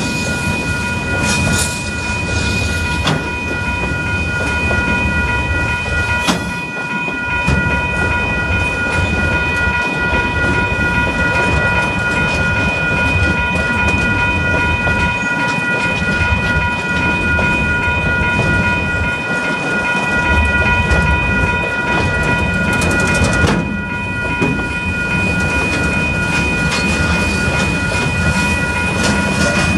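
Container wagons of a KiwiRail freight train rolling past, wheels clicking over the rail joints with a continuous low running noise. Under it, a steady high ringing from the level crossing's warning bells.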